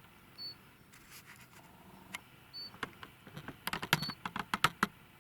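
Sharp clicks and rustles of close handling, bunched together in the second half. A short, faint, high peep repeats every one to two seconds.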